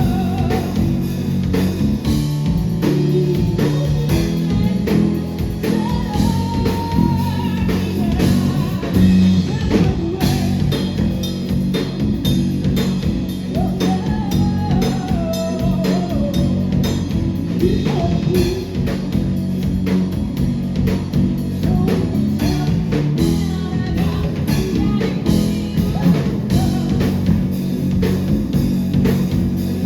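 Rock band playing live: drum kit, electric guitar and bass going steadily, with a singer's voice over them at times, heard as a live club recording.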